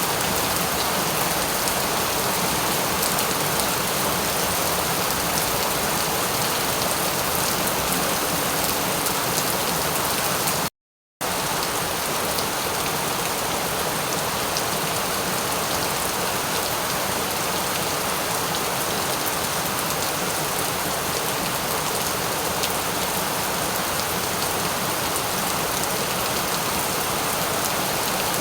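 Steady, even rain falling. It cuts out to silence for about half a second a little before the middle, then resumes unchanged.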